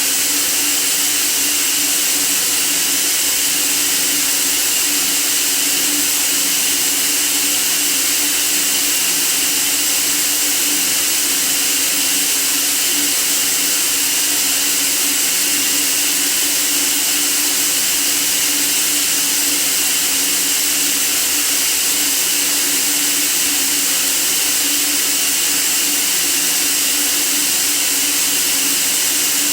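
Steady white noise: an even hiss, strongest in the high range, with a faint steady hum beneath it, unchanging.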